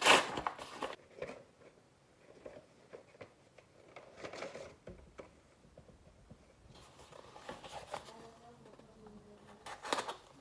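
A package being opened by hand: a loud rip or rustle of packaging at the start, then scattered rustling and small clicks, with another burst of rustling near the end.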